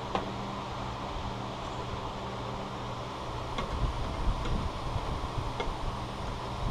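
Steady low hum of a shop fan or air conditioner, with a few light clicks and, from about halfway through, low knocks and rustles of hands working on parts.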